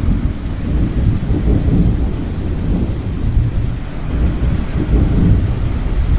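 Thunder rumbling low and rolling, swelling and easing over a steady wash of ocean waves.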